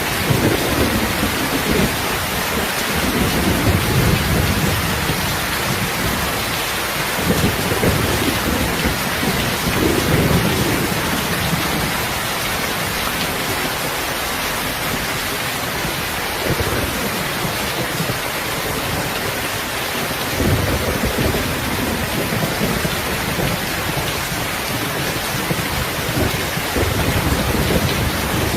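Steady rain, a dense even hiss, with low rumbles that swell and fade several times: longest over the first several seconds, then again about ten seconds in, about twenty seconds in and near the end.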